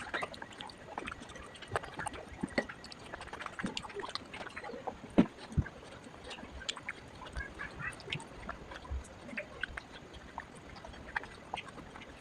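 Scattered light clicks, taps and knocks of small objects being handled, with two firmer knocks about five and a half seconds in and a few short squeaks.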